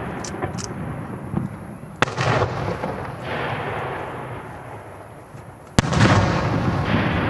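Aerial firework shells bursting: two sharp reports, one about two seconds in and one near six seconds, each followed by a long, fading rolling rumble, with a few smaller pops near the start.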